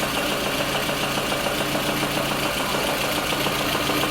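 Lada Kalina car engine idling with a fast, even tapping clatter over its hum: the knock being chased, which the job traces to axial play in the camshaft.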